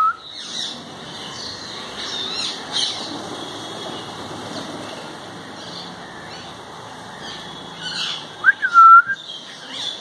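Birds chirping on and off in the tree, with a loud whistle that swoops up and down twice about eight and a half seconds in.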